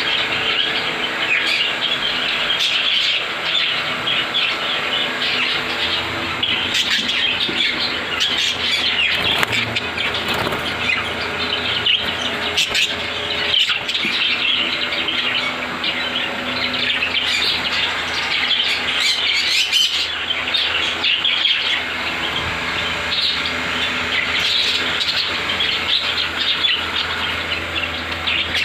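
A mixed flock of pet parrots (budgies, cockatiels, ringneck parakeets and sun conures) chirping and chattering all at once in a dense, continuous chorus, with occasional sharper calls standing out.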